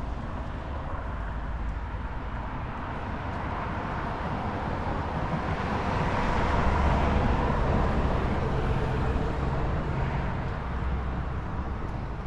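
Road traffic going by: a vehicle's tyre and engine noise swells to a peak about halfway through, then fades.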